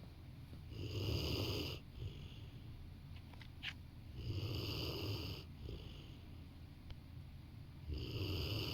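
Rottweiler snoring in its sleep: three drawn-out snores, about one every three and a half seconds, each followed by a brief, softer breath.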